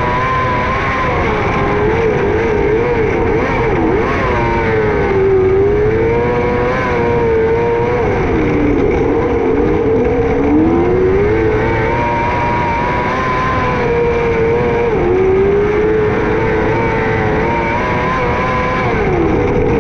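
600cc micro sprint car engine running hard, its pitch climbing on the throttle and dropping sharply every four to five seconds as the driver lifts for the turns.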